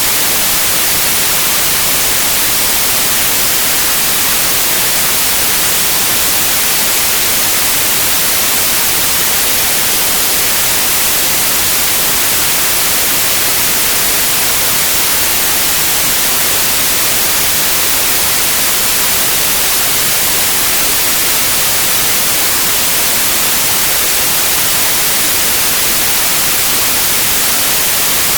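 Steady white noise: a constant, even hiss, strongest in the high frequencies, with no change or events.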